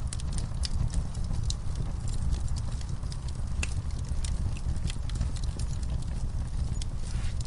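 Wood fire in an outdoor fireplace crackling, with irregular sharp pops and snaps over a steady low rumble.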